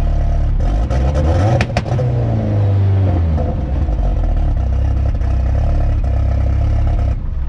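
Turbocharged VW Gol four-cylinder engine running while the car is driven, its pitch shifting up and down between about one and three seconds in, with a few sharp clicks, then running steadily until it cuts off just before the end.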